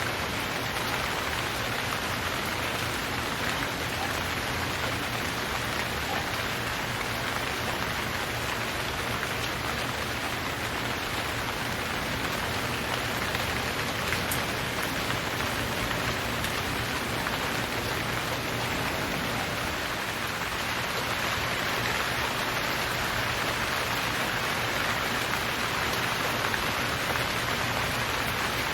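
Steady, even rain falling and pattering on surfaces, with no let-up.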